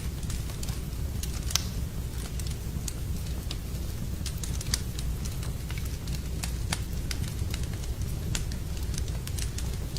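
Wood fire burning in a fireplace: irregular sharp crackles and pops over a steady low rumble of the flames, with two louder pops about one and a half seconds in and near the middle.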